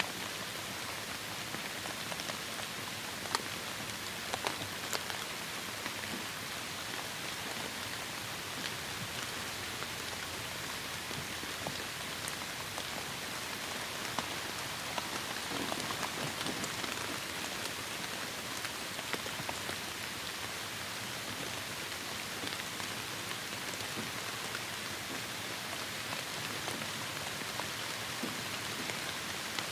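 Heavy rain falling steadily, a dense even hiss with scattered sharp ticks of single drops striking a surface.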